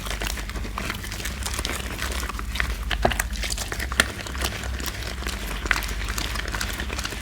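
Laundry soap being lathered into foam: a dense, irregular run of quick crackles and clicks.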